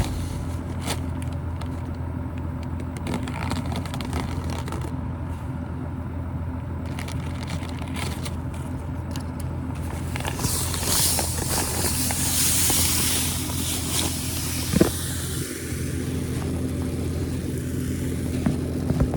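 A vehicle engine running steadily with a constant low drone. A hissing rush rises partway through and then eases.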